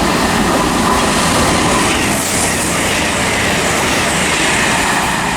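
Virgin Trains Class 221 Super Voyager diesel-electric multiple unit passing through the station, a loud steady rush of wheels on rails and engine noise.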